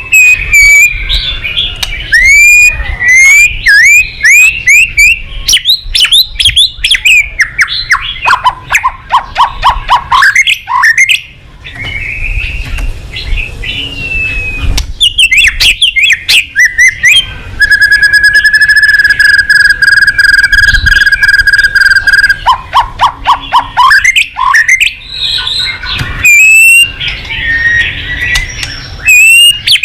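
White-rumped shama (murai batu) singing a loud, varied song of gliding whistles and rapid runs of repeated notes, with one long steady whistle held for about five seconds past the middle.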